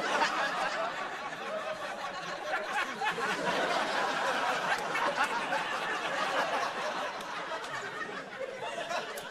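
A crowd laughing: many voices overlapping in one continuous laugh, easing slightly near the end.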